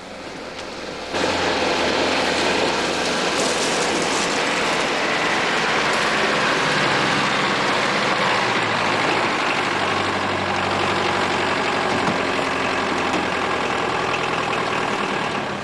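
Engine of a vintage black sedan running steadily. It starts abruptly about a second in and holds a loud, even drone.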